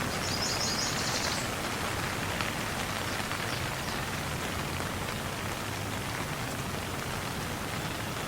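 Steady rain falling, an even hiss of drops on surfaces. About a second in, a brief high trill of rapid repeated notes sounds over it.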